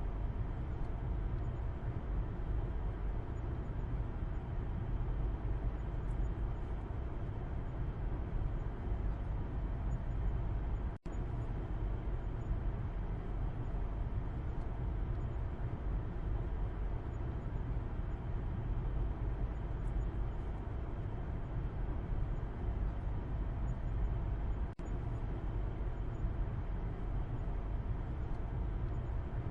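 Steady road and engine noise heard from the back seat inside a moving car, a low, even rumble. The sound drops out for an instant twice.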